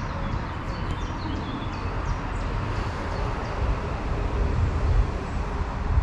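Road traffic on a main road, lorries and cars going by as a low rumble that swells toward the end, with birds chirping during the first couple of seconds.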